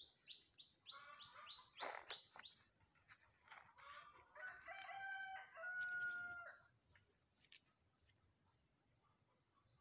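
Birds calling. A fast series of short, falling chirps runs over the first two seconds, then a longer call with held notes comes about five to six seconds in. A single sharp click sounds about two seconds in.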